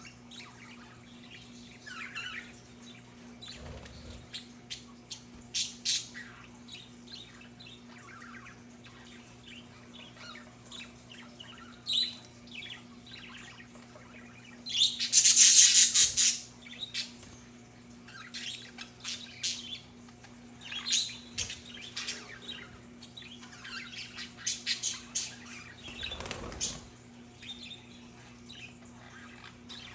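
Budgerigars chirping and chattering in short, scattered calls, with one loud, harsh burst lasting about a second and a half about halfway through.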